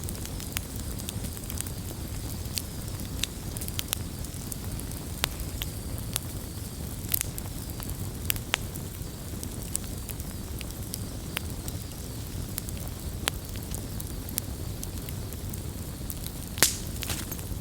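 Wood campfire burning: a steady low rumble of flames with scattered sharp crackles and pops, the loudest pop about a second before the end.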